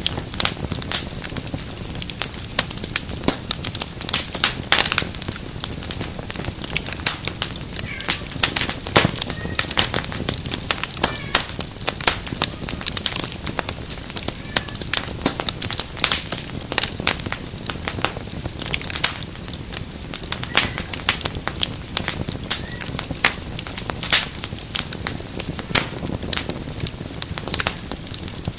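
Wood fire crackling and popping: a dense, steady stream of sharp snaps and pops over the low, even rush of the burning flames.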